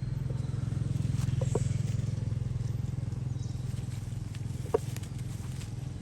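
A motor vehicle's engine running with a low steady hum, growing louder about a second in and then slowly easing off, with a few light clicks over it.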